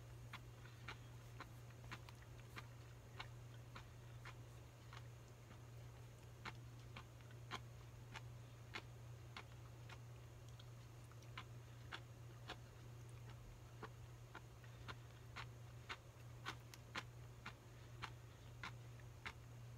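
A person chewing food close to the microphone: small wet mouth clicks about one and a half to two a second, with a couple of short pauses. A steady low hum runs underneath.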